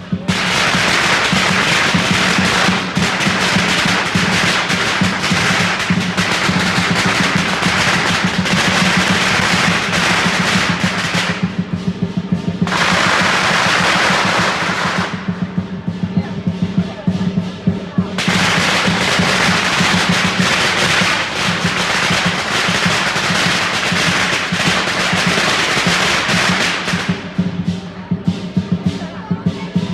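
Long strings of firecrackers going off in rapid, dense crackling, with short breaks about twelve and fifteen seconds in and stopping near the end. Under it, the lion dance drum and percussion keep playing.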